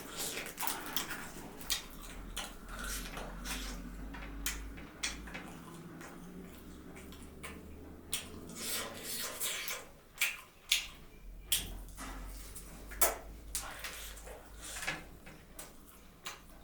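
Close-miked eating sounds: chewing and wet mouth noises with many short, irregular clicks and smacks.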